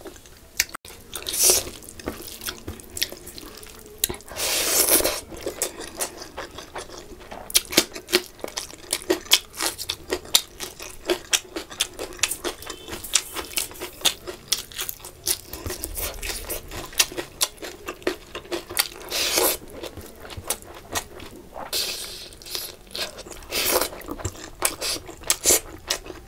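Close-miked eating sounds: chewing and crunching fried fish and curried rice with wet mouth smacks, and fingers squishing rice. Many short clicks and crackles, with three longer, louder noises along the way.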